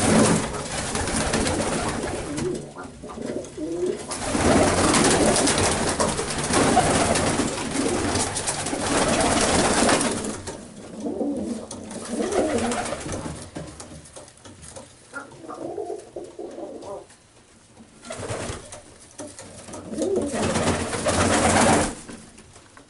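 Domestic pigeons cooing in a loft, low wavering coos, under stretches of louder rushing, rustling noise during the first ten seconds and again near the end.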